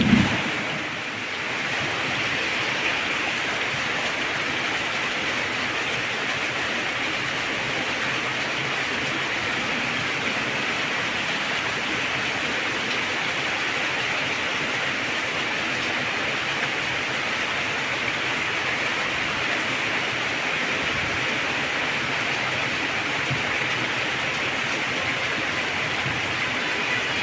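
Heavy rain falling in a steady, even hiss. A short low rumble of thunder ends in the first second.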